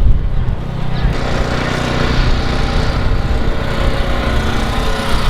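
An engine running steadily at idle, with a steady hiss over it from about a second in.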